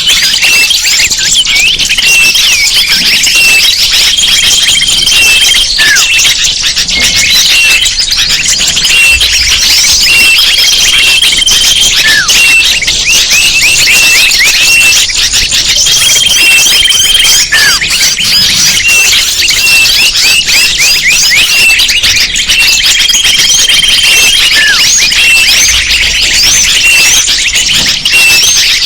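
Bird-lure recording (suara pikat): a dense chorus of many small birds chirping and twittering, high and without pause, with a held whistled note and a falling call coming back about every six seconds as the recording loops.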